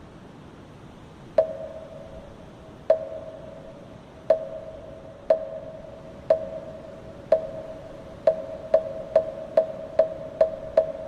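Moktak (Buddhist wooden fish) struck with its mallet: hollow knocks, each with a short ringing tone. They begin about a second and a half in, about a second apart at first, then speed up to roughly two a second near the end.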